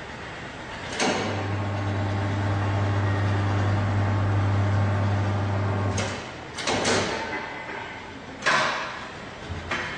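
FLYING BL543 tyre changer's motor starting with a clunk and running with a steady low hum for about five seconds, then stopping. Several sharp metal clanks follow as the machine's parts move and stop.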